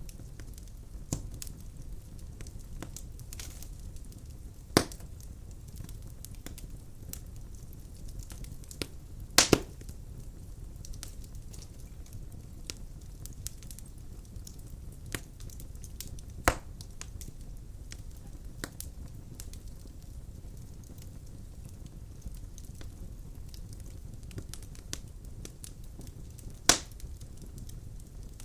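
Wood fire burning in a fireplace, a steady low rumble and hiss under frequent small crackles, with a few loud pops: one about five seconds in, a quick double pop near ten seconds, one around sixteen seconds and a last one near the end.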